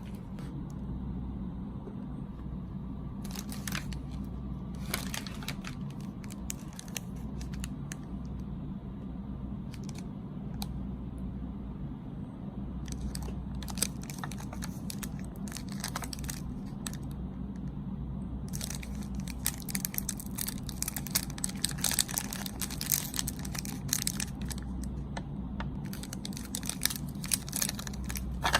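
Plastic snack packaging crinkling and tearing in bursts as a snack is unwrapped, with scattered clicks, over a steady low hum.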